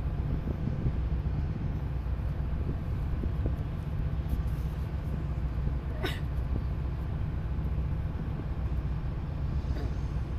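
Steady low rumble of a tugboat's engine under way, with one short, sharp high squeak about six seconds in.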